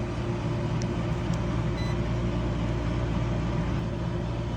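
Carrier heat pump running with a steady electrical hum from its compressor. The compressor is overamping while it runs and pulling a little hard; the technician thinks it is probably real hot.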